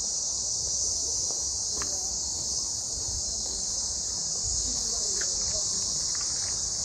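Cicada chorus: a steady, loud high-pitched buzz that does not let up, with a few faint short chirps.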